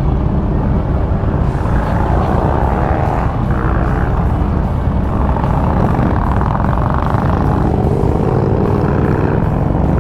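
Harley-Davidson motorcycle engine running steadily while riding.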